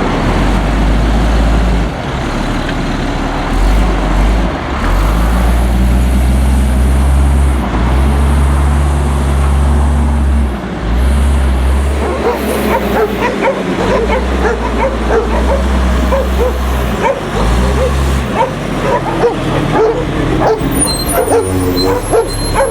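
Diesel engine of an Autocar front-load garbage truck running, its pitch stepping up and down. A dog barks repeatedly from about halfway through.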